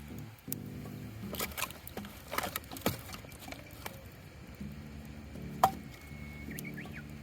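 Wood campfire crackling, with scattered pops and one sharp loud pop about two thirds of the way through, over soft background music with slow steady notes.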